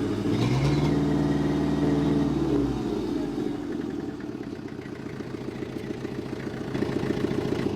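Old crawler tractor engine running on old fuel: it revs up briefly, then drops back near three seconds in to a slower, rhythmic idle with each firing stroke audible.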